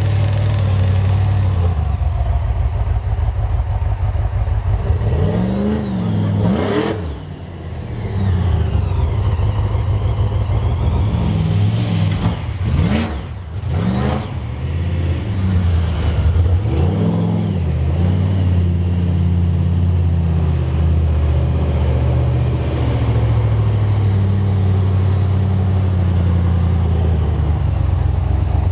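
Toyota FJ45's engine running hard under load, its revs dropping sharply and climbing back several times, the deepest dips about a quarter and halfway through.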